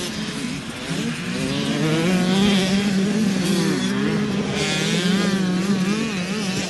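Motocross bike engines revving, with the pitch rising and falling as the bikes ride. More than one engine can be heard at once.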